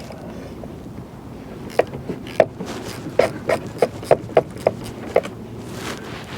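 A run of about nine sharp metallic clicks and knocks at uneven spacing, from about two seconds in to about five seconds in, as tools and parts are handled at the truck's battery terminals.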